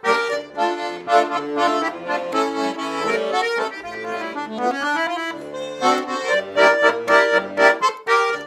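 Accordion playing the instrumental introduction of a song: rhythmic chords at first, then a sustained melody line in the middle, with the chord stabs returning near the end.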